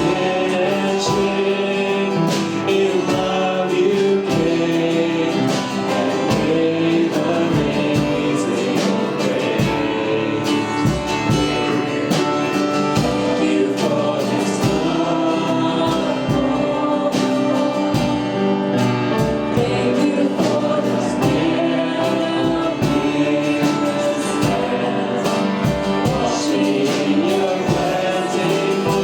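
Congregational worship music: a band with guitar and drums accompanying group singing of a gospel song.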